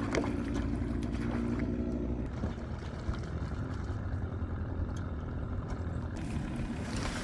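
Small boat's motor running steadily on the river, with a low hum of even pitch for the first two seconds and a rougher steady rumble after that.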